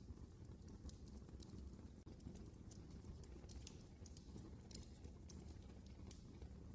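Wood fire crackling in a fireplace: sharp, irregular pops and crackles over a low, steady rumble of burning.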